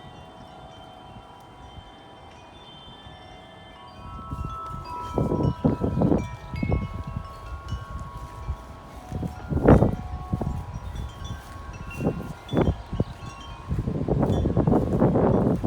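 Wind chimes ringing in gusty wind: a few tones die away, then from about four seconds in a gust sets them striking again and again. Wind buffets the microphone in short rumbles, and more heavily near the end.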